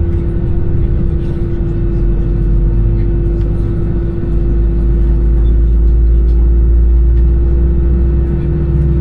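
Airbus A320 cabin noise: a steady hum over a low engine rumble that swells about four seconds in and stays strong.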